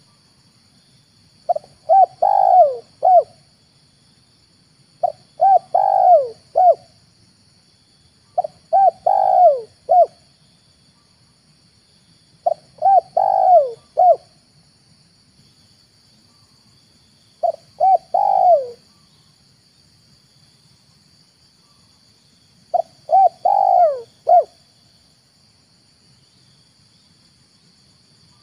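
Spotted dove (tekukur) cooing: six phrases, each a few short coos running into a longer drawn note, repeated every three to five seconds, over a steady high hiss.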